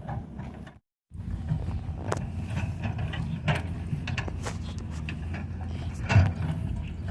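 An engine running steadily with scattered clanks and knocks, typical of machinery working on a road repair. The sound cuts out completely for a moment about a second in.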